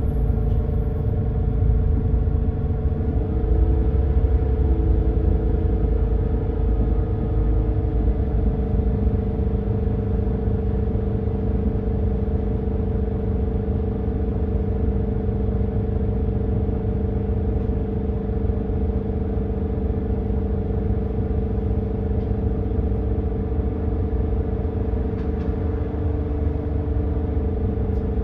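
Edison Motors Smart 110G natural-gas city bus's GX12P engine running, heard from inside the cabin. There is a steady low rumble and a hum that holds one pitch throughout, plus a fainter lower tone that shifts down about eight seconds in.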